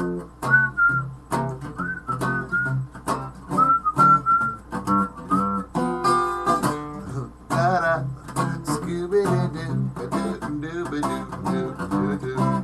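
Acoustic guitar picked and strummed in an instrumental break between sung verses, with a high, thin whistled melody over it whose notes slide up into pitch.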